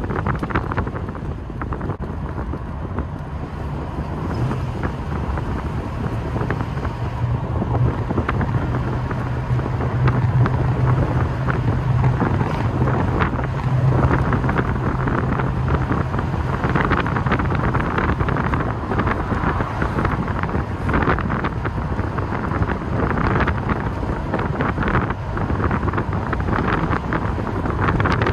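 TVR V8 engine burbling at a steady cruise, heard from the open-topped cockpit through heavy wind buffeting on the microphone. The engine's low note holds steady for much of the time and sinks under the wind noise past the middle.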